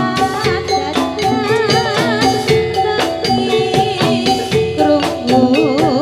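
Javanese gamelan music accompanying a jathilan dance: metal mallet instruments playing steady repeated notes over a driving drum beat, with a wavering high melody line on top.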